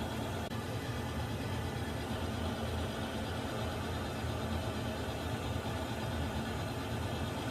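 Water heater running with a steady low rumble and a faint even hum. There is a faint tick about half a second in.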